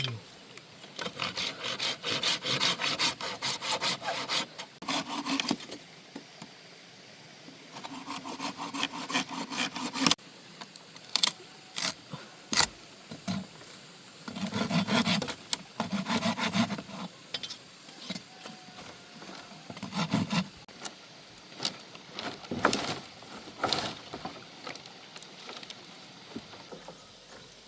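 Saw cutting through the wood of a fallen tree in several bouts of quick back-and-forth strokes, with pauses and a few sharp knocks between the bouts.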